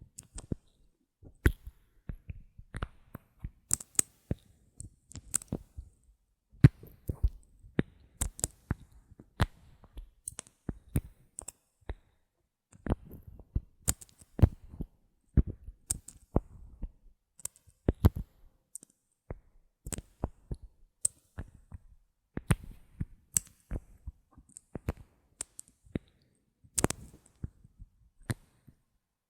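Bottle caps being handled close to the microphone, giving a run of irregular sharp clicks and taps with a short pause about twelve seconds in.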